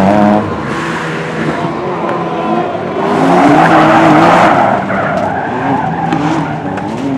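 Race car engine revving up and down through the slalom, its pitch rising and falling, with a loud hissing skid of the tyres from about three seconds in to near five seconds.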